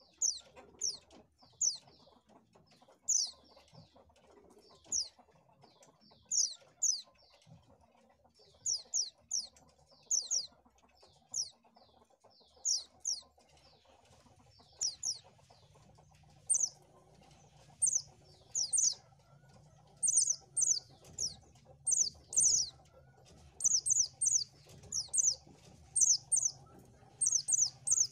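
White-eye (pleci) calling: short, high chirps that drop in pitch, singly and in quick groups of two to four, coming more often and louder in the second half.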